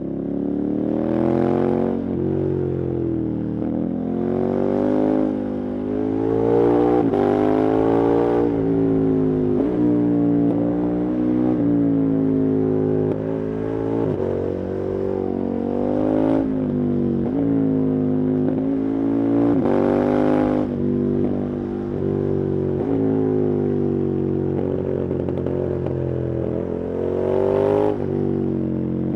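KTM 1290 Super Adventure's V-twin engine under hard riding, its revs climbing and dropping again and again as the rider accelerates, shifts gear and rolls off the throttle.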